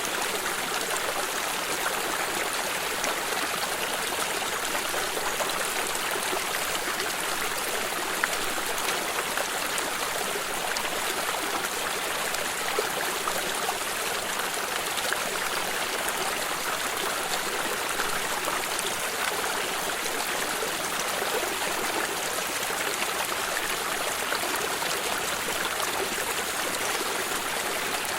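Water stream flowing steadily: an even, hissy rush of water with light trickling and little low rumble.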